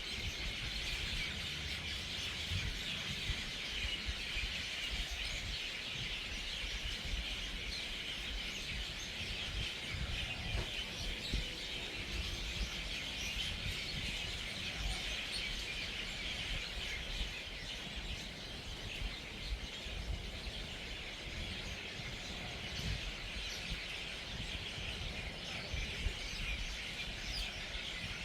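A large flock of birds chattering continuously, many calls overlapping into a dense, steady din, as they gather at an evening roost. A low rumble runs underneath.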